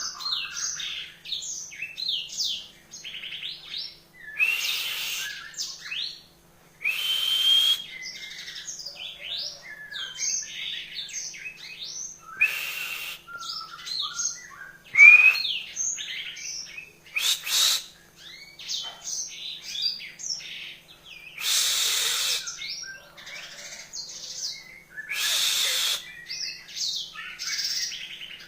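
Yellow-fronted canary (Mozambique singer) singing a long, fast, varied song of short chirps, whistles and trills, broken every few seconds by louder, rasping phrases.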